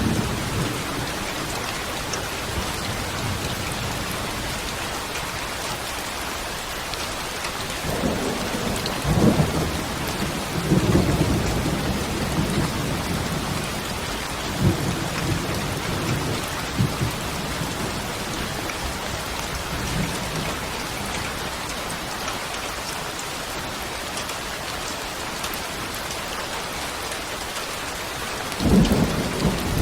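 Steady rain falling, with low rolls of thunder about a third of the way in and again just before the end.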